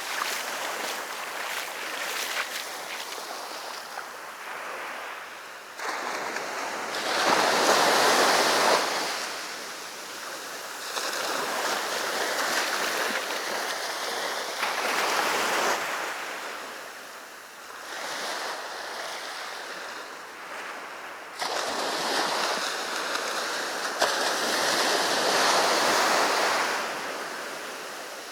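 Sea waves breaking on a beach, the surf swelling and falling away in surges every few seconds, with a little wind on the microphone.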